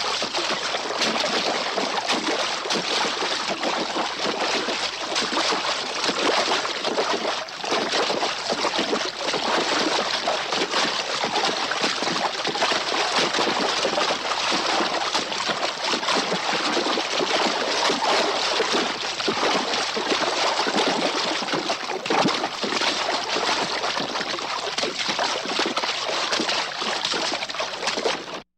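A horse wading and stepping out of water: continuous splashing and sloshing with dripping, dense and fairly even throughout, cutting off abruptly at the end.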